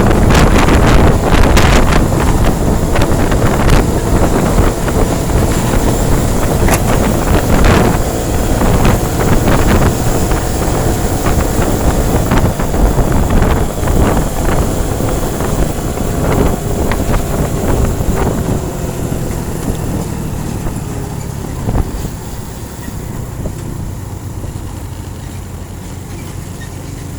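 Loud wind buffeting the microphone on a moving vehicle, over a low road and engine rumble, with frequent sharp gusts. It eases off about twenty seconds in.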